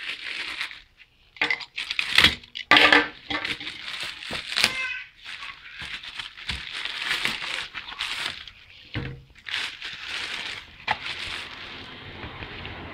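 A cardboard shipping box being opened and unpacked by hand: irregular tearing and crinkling of cardboard and packing material, with knocks and clinks of the containers inside being handled.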